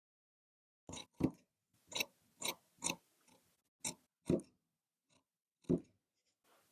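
A tailor's work at the cutting table: an irregular series of short, sharp clicks and knocks, starting about a second in.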